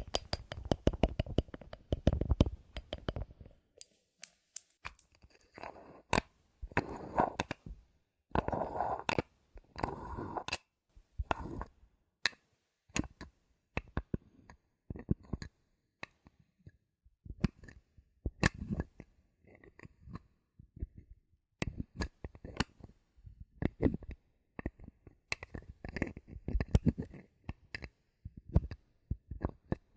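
Bottle caps handled close to the microphone: many sharp clicks and taps at an uneven pace, with stretches of gritty scratching and rubbing.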